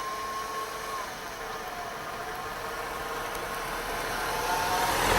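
Vehicle engine running steadily, getting louder near the end as a vehicle draws closer.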